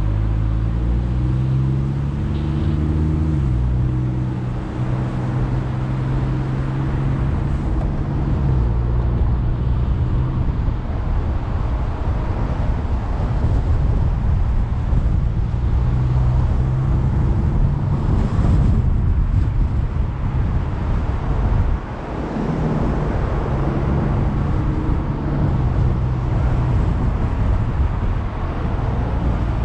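Car engine running while driving, with road and wind noise. The engine note rises for the first few seconds, then drops back abruptly, as at a gear change, and runs on steadily.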